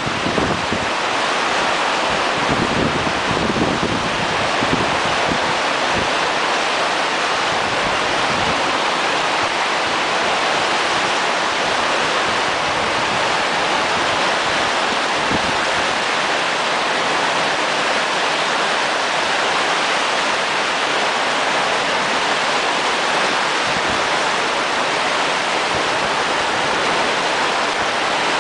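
Steady rushing of running water, an even hiss that doesn't swell or fade, with a few low wind buffets on the microphone in the first few seconds.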